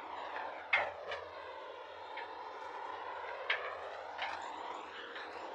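A steady rushing noise whose tone sweeps slowly down and back up, with a few short clicks, about three in all.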